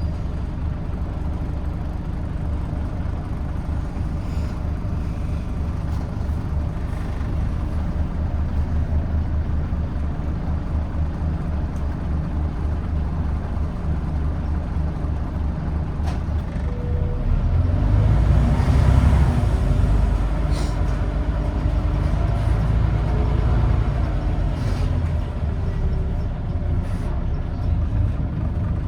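Scania N94UD Omnidekka double-decker bus's diesel engine heard from on board, running with a steady low rumble. The rumble swells louder for a couple of seconds just past the middle, and there are a few light clicks of the bus body.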